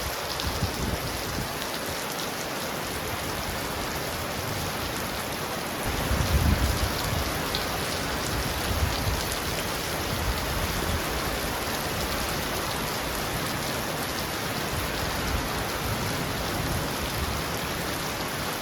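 Heavy rain pounding steadily on a roof, a dense even hiss, with a low rumble of distant thunder swelling about six seconds in and fainter rumbles later.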